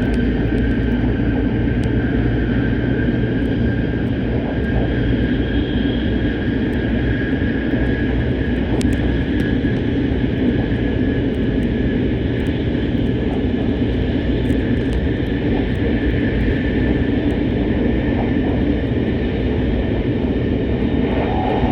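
Steady cabin noise of a Hokuriku Shinkansen train running at speed: a dense, even rumble with a thin, steady high whine over it.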